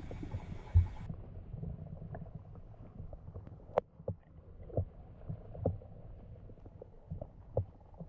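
Muffled low rumble of water against a kayak's hull, with scattered soft knocks and one sharper click about four seconds in.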